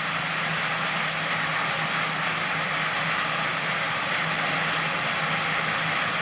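An engine running steadily: a constant low hum under an even hiss, with no change in pitch or level.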